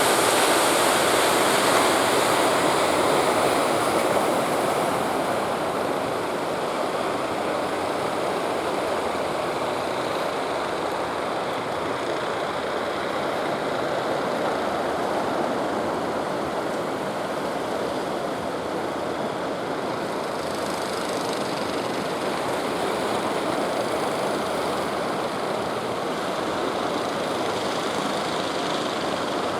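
Steady rushing noise of water and wind with a fishing boat's engine running under it, a little louder in the first few seconds.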